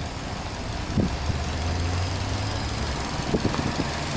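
Subaru Impreza S-GT's turbocharged EJ20 flat-four engine idling steadily, with one short knock about a second in.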